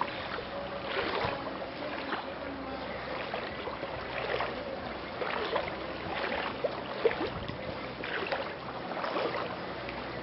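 Floodwater splashing and sloshing in irregular splashes about once a second, over a steady wash of moving water.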